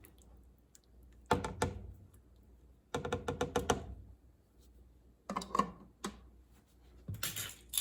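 Kitchen utensils clicking and clattering in four short bursts of quick knocks, a couple of seconds apart.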